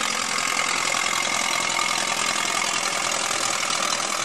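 Antique tractor engine running steadily with a fast, even mechanical clatter.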